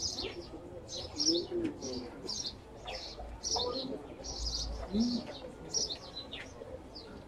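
Small birds chirping, short high chirps repeating about twice a second, over a low murmur of distant voices.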